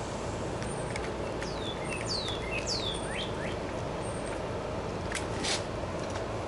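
Birds chirping over a steady background hiss, a run of short falling chirps in the first half, with a couple of light clicks near the end.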